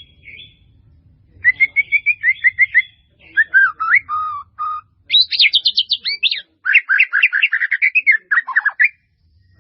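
White-rumped shama (murai batu) singing a varied, mimicry-filled song. It comes in several quick phrases with short pauses between them: rapid runs of clear whistled notes, a few lower slurred whistles, and a high, fast run that falls in pitch.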